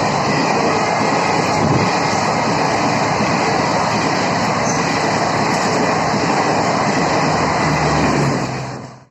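Passenger train coaches rolling into a station as they brake for a halt: a steady rumble and clatter of wheels on rails, with only faint traces of brake squeal. The sound fades and cuts off near the end.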